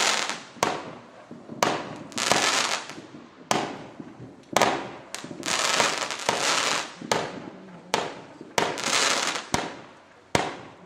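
Brothers 'Happy 36' 36-shot consumer fireworks cake firing: shot after shot, roughly one a second, each a sharp launch crack followed by the bursting break and trailing crackle. Its breaks are small for a cake labelled up to 200 grams, since its tubes hold about 100 grams at most.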